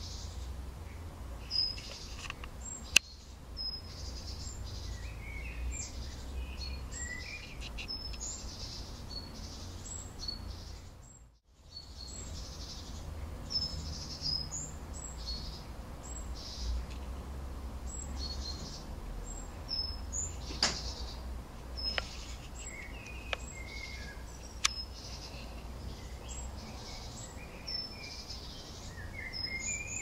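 Small garden birds chirping and singing in short, scattered calls over a steady low background rumble. A few sharp clicks stand out, the loudest about three seconds in, and the sound drops out briefly near the middle.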